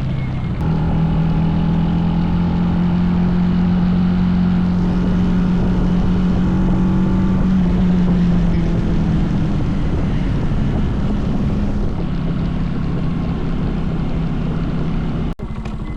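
Small single-cylinder mini bike engine running steadily under throttle while riding, its note rising about half a second in and easing off later. Near the end the throttle drops abruptly and the engine falls to a slower, pulsing idle. The rider says the bike has a brake dragging and sounds bad.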